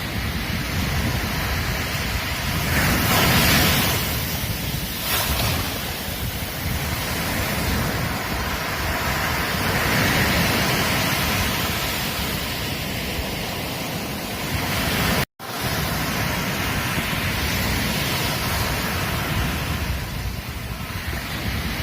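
Ocean surf washing onto a beach: a continuous rush of breaking waves that swells and eases every few seconds. The sound cuts out completely for a split second about fifteen seconds in.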